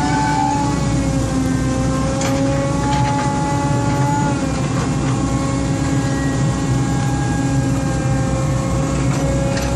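Excavator's diesel engine running steadily under load, with a whine that drifts slowly in pitch and a few light clanks.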